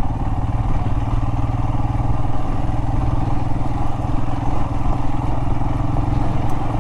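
Royal Enfield Himalayan's single-cylinder engine running at a steady, even speed as the motorcycle rides off-road over loose rock and gravel.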